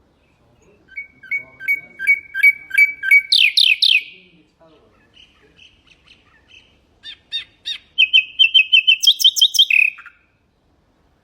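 Nightingale singing two phrases. The first is a run of evenly repeated two-note units that breaks into a few loud, quick notes about three seconds in. After a quieter pause, the second is a fast series of repeated notes that steps up in pitch and ends in a short falling flourish near the end.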